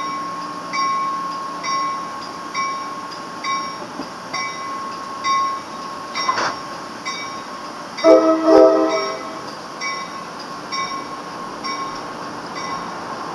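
Grade-crossing bell ringing about once a second over the running noise of an NJ Transit electric push-pull train rolling out of the station. A sharp clank about halfway through, then the train horn sounds two short blasts.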